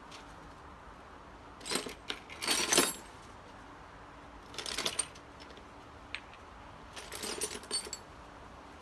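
Steel sockets and hand tools clinking and clattering against each other in four short bursts, the loudest a little under three seconds in.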